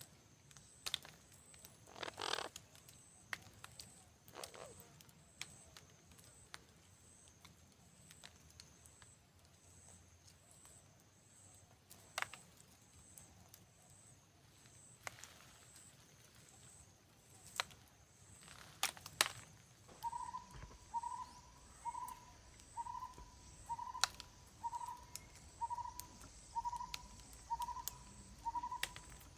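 Animal calls: a very high, short chirp repeating about every two-thirds of a second throughout, and from about two-thirds of the way in a lower call note repeated about once a second. Scattered sharp clicks and brief rustles sound over them.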